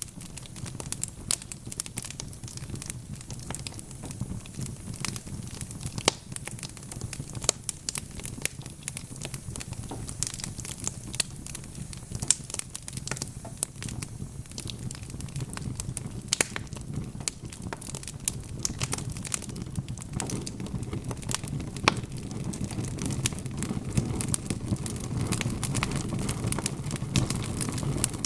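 Wood fire burning in a fireplace: logs crackling with frequent sharp pops and snaps over a low steady rumble of the flames, the rumble growing louder in the last several seconds.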